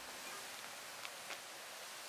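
Faint, steady hiss, with two small ticks a little past one second in.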